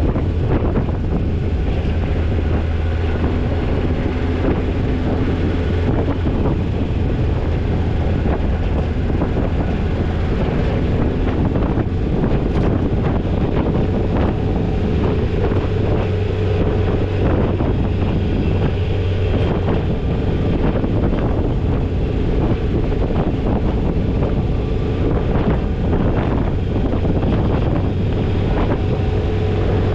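Toyota Tercel 4WD wagon driving on a rough off-road trail: a steady low engine drone with frequent small knocks and rattles, and wind on the microphone.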